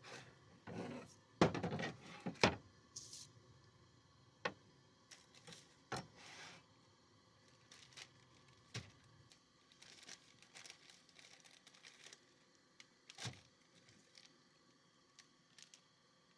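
Rustling and crinkling handling noises with scattered clicks and knocks, heaviest in the first few seconds and thinning out towards the end.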